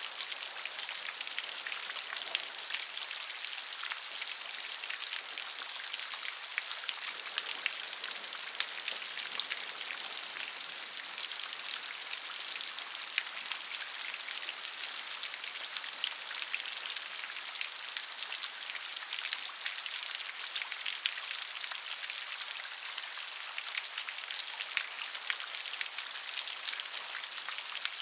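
Steady rain falling, many individual drops pattering on a surface in a dense, even hiss.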